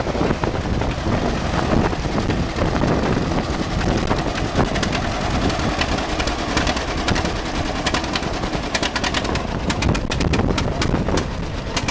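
Tractor engine running loudly and steadily, with a rapid series of sharp clicks or pops over its last few seconds.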